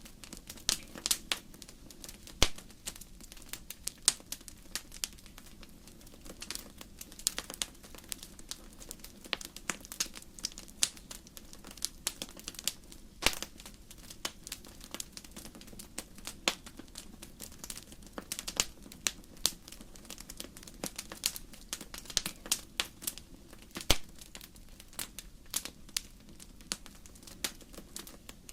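Wood fire crackling in a fireplace: a steady low hiss with irregular sharp snaps and pops from the burning logs, a few louder cracks scattered through.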